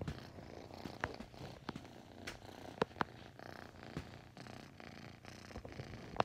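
A five-month-old kitten purring steadily close to the microphone, with a few sharp clicks scattered through.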